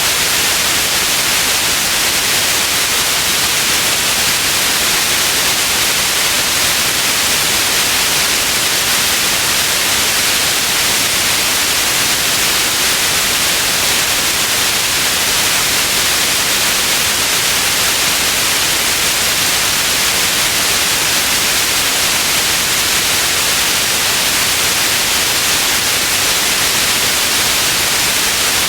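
Steady white noise: an even, unchanging hiss, strongest in the upper frequencies.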